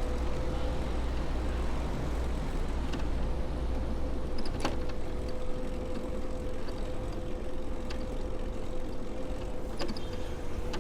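City street traffic heard from a moving bicycle: a steady low rumble with a constant hum and a few brief clicks.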